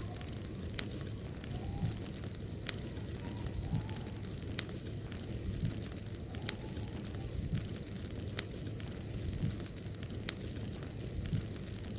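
Wood bonfire burning with a steady low rumble and sharp crackling pops every second or two.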